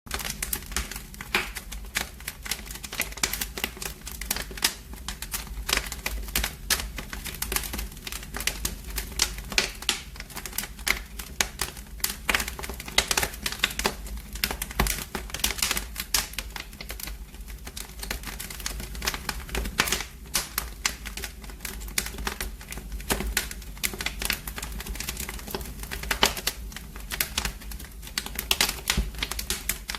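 Wood fire in a fireplace crackling: dense, irregular pops and snaps over a steady low rumble.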